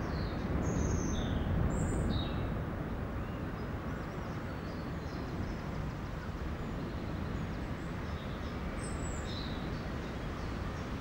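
Steady background noise with small birds chirping a few times, short high calls about a second in, at two seconds and again near nine seconds.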